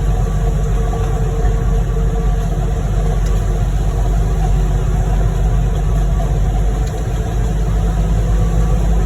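Heavy diesel engines running steadily at a loud, even pitch: a ready-mix concrete mixer truck discharging its load into a concrete pump truck's hopper.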